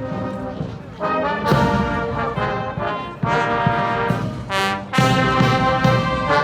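Massed military band playing a march, brass over drums. It starts softer, then the full band comes in loudly about a second in, with further loud entries at about three and five seconds.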